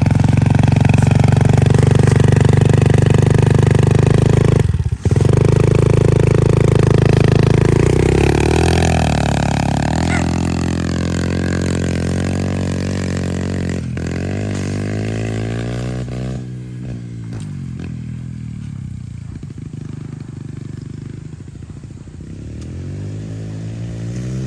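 Pit bike engine running hard and close, with a brief cut about five seconds in. Its pitch then rises and falls repeatedly as it revs, fading as the bike moves off and growing louder again near the end.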